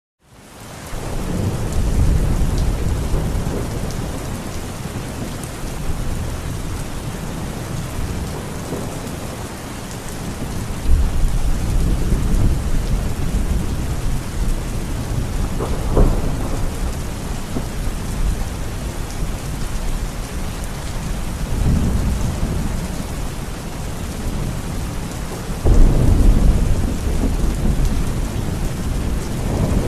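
Steady heavy rain with rolling thunder. Low rumbles swell and fade several times, with sharper cracks about eleven, sixteen and twenty-six seconds in.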